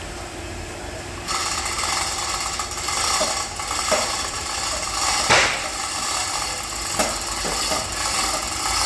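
Workshop noise: a steady machine hiss starts suddenly about a second in, with about five separate metal knocks over it, the loudest a little past halfway.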